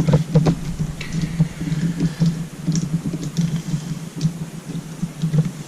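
Light clicks and taps of small screws and a hand driver being worked into plastic RC truck parts, over a steady low hum.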